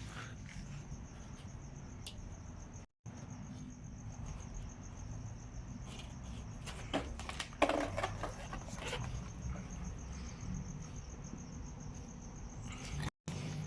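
A steady, high-pitched insect-like trill, pulsing rapidly, over a low background rumble, with a few sharp knocks and clicks about seven to nine seconds in.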